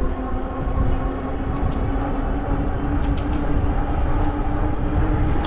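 Fat-tyre e-bike riding along a paved trail: a steady hum from the tyres and hub motor that creeps slightly up in pitch, over low wind rumble on the microphone, with a few faint ticks.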